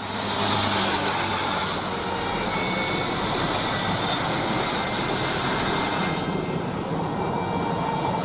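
Jet airliner's engines running loud and steady: a dense rushing noise with a faint high whine, cutting in suddenly at the start.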